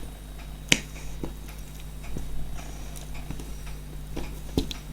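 Small clicks and taps of plastic and metal parts being handled and fitted together while a gas-stove lighter is reassembled. Two sharper clicks come about a second in and near the end, over a steady low hum.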